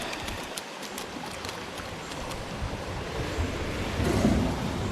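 Steady rush of flowing creek water, with low wind rumble on the microphone that grows stronger in the last second or two.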